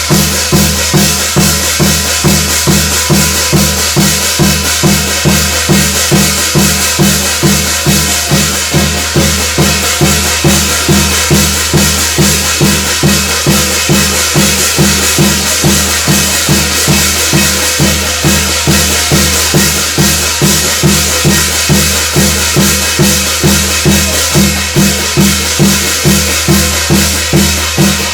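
Korean shamanic gut percussion music: drums beating a steady rhythm about twice a second under a constant bright metallic wash.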